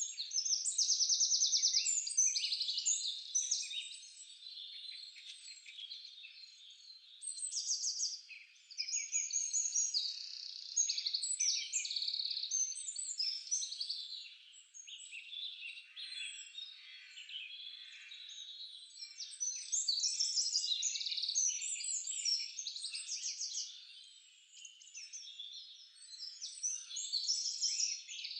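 Many songbirds singing at once in a dense chorus of overlapping chirps and fast, high trills that swell and fade.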